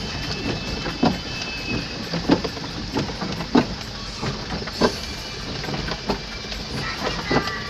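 Truck running slowly over a rough, rocky road: a steady low engine rumble, with a sharp knock about every second and a quarter.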